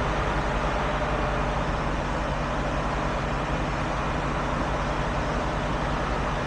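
Truck engine idling steadily, an even low drone that holds the same pitch and level throughout.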